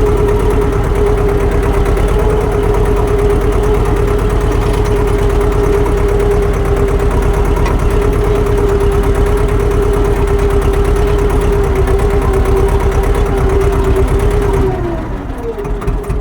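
Swaraj tractor's diesel engine running steadily with an even beat and a steady whine, then slowing down near the end as the tone falls and the sound drops.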